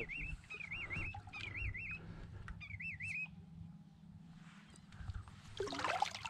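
A bird repeating a high warbling call, each note about half a second long, several times and then stopping a little over halfway through, over a steady low rumble. A short, louder, rushing noise comes near the end.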